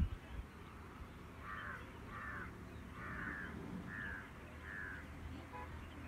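A bird calling five times in an even series, short calls a little under a second apart, over a faint low outdoor rumble.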